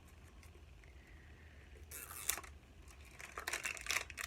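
Product packaging rustling and crinkling as it is handled and opened, in two short bouts: one about two seconds in, and a longer one near the end.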